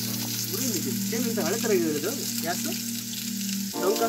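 Chicken pieces and sliced onions frying in a large steel pot, a steady sizzle. Under it runs background music of held tones with a gliding melody, which changes chord near the end.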